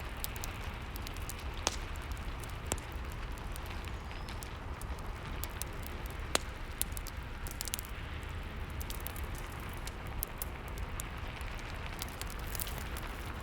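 Steady rain hiss mixed with a crackling fireplace: scattered sharp pops and snaps over the rain.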